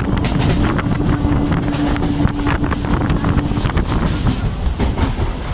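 MEMU electric passenger train running at speed, heard from its open doorway: wind rushing over the microphone and wheels clattering on the track. A steady tone sounds through the first three or so seconds.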